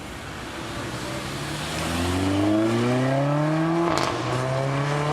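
Mercedes-Benz A45 AMG's 2.0-litre turbocharged inline-four accelerating hard, its exhaust note rising in pitch. About four seconds in, an upshift lands with a sharp crack from the exhaust and the engine note drops, then climbs again.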